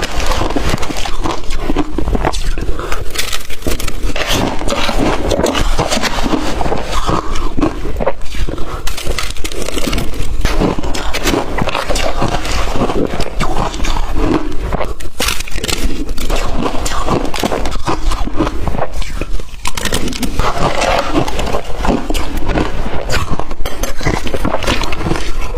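Crunching and chewing of blender-crushed ice, a dense, continuous run of crackles and crunches.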